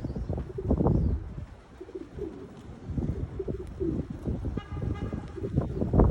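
Gusty wind buffeting the microphone, with pigeons cooing about two to four seconds in and a brief car horn near the end.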